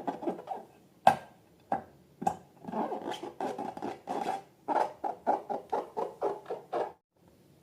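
Slime being squished and kneaded by hand: a run of quick crackly clicks and pops, several a second, that cuts off suddenly near the end.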